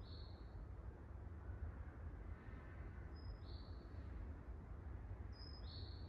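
A small bird's high two-note chirp, a brief higher note dropping to a slightly lower one, repeated three times about every two and a half to three seconds, over a steady low rumble.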